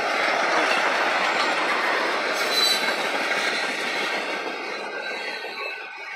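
Freight cars of a passing train rolling by at close range: a steady rumble and clatter of steel wheels on rail, getting quieter over the last couple of seconds.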